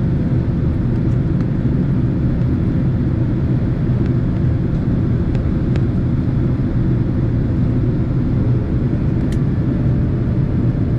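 Steady cabin noise of a Boeing 767 airliner in flight: a loud, even low rumble of engines and airflow. A few faint clicks.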